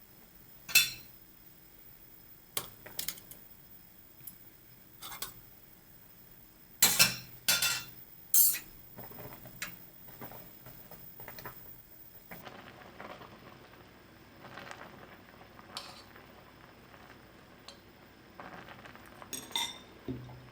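Kitchen utensils and dishes clinking and knocking against each other: scattered sharp clinks, with the loudest cluster of knocks about seven to eight and a half seconds in and another near the end.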